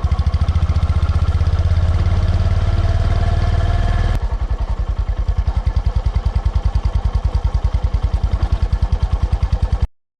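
Honda GB350C's air-cooled single-cylinder engine running with a steady, even pulse of firing strokes. The sound drops slightly in level about four seconds in and cuts off suddenly near the end.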